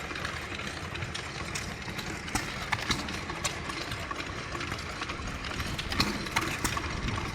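Vintage stationary engines running, with irregular sharp clicks and knocks over a steady low rumble.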